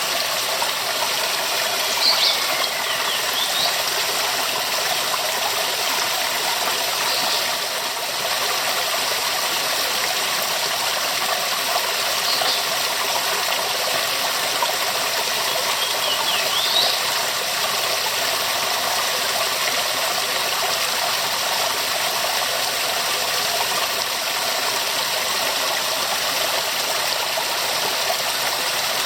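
Waterfall with a steady, even rush of falling water. A few brief, faint high chirps come through over it now and then.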